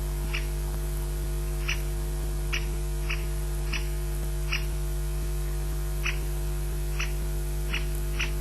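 An unidentified animal giving short, high-pitched call notes, repeated irregularly about once a second with a pause midway. A steady electrical mains hum runs underneath.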